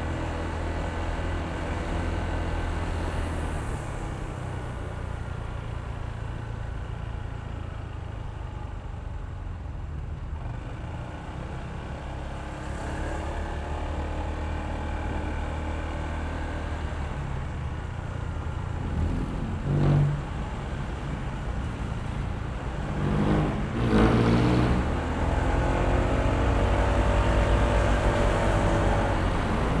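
Honda ADV160 scooter's single-cylinder engine running on the move, with steady road and wind noise. It swells briefly twice about two-thirds of the way in, and near the end the engine's pitch glides as it accelerates.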